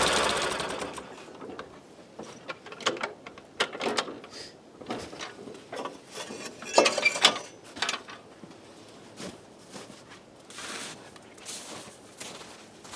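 Ford 8N tractor's four-cylinder flathead engine shutting off and dying away within the first second or so. It is followed by scattered light clicks and knocks, with a sharper knock about seven seconds in.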